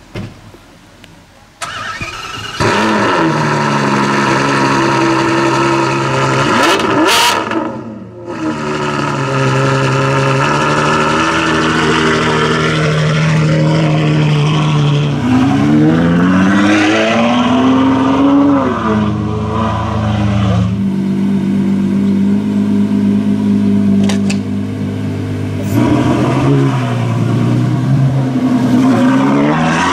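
Ferrari F12 Berlinetta's V12 through a Novitec N-Largo exhaust, coming in loud about two and a half seconds in, then running at a loud idle and revved several times, its pitch rising and falling.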